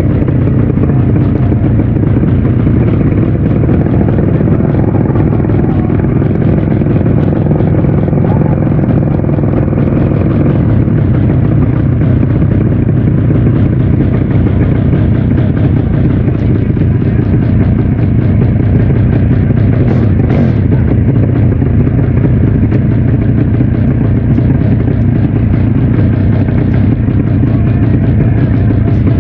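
Drag-bike motorcycle engine running loud and steady, with no break in the sound.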